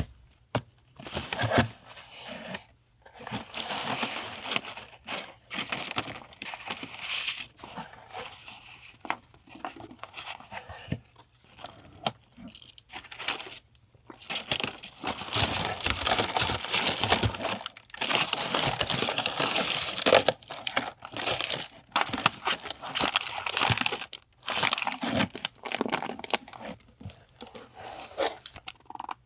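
Paper being handled, crinkled and torn in irregular rustling bursts, with short pauses between them.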